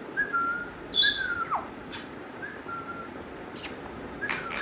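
Parrot giving three short whistled notes, the middle one ending in a quick downward slide, with a few sharp clicks between them.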